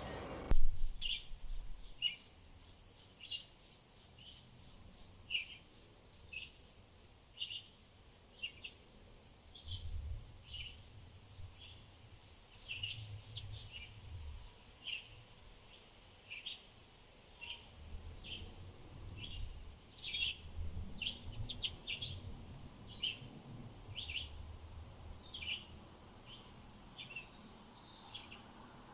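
Small birds calling and chirping. A regular series of short high notes comes about three times a second for the first half and then stops, while scattered lower chirps go on throughout.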